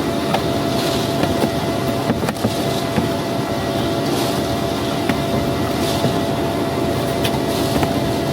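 Concrete mixer truck running steadily, with road noise and scattered light clicks and rattles.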